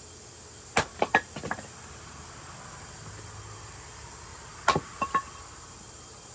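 Two quick clusters of hard wooden knocks about four seconds apart, each three or four knocks within half a second: chunks of red oak firewood being split and knocking together.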